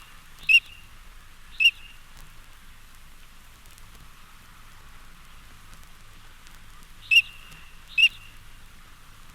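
Drake common teal calling with short, crisp whistled notes: two about a second apart, then a gap of several seconds, then two more. A faint steady hiss lies beneath.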